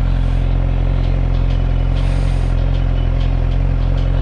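2013 Suzuki GSX-R600's inline-four engine idling steadily at a standstill.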